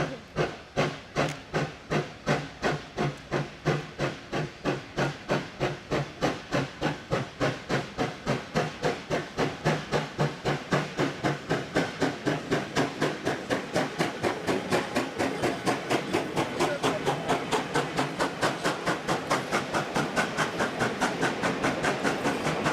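Steam locomotive exhaust chuffing steadily as it pulls away, the beats quickening from about two or three a second to about four a second as it gathers speed.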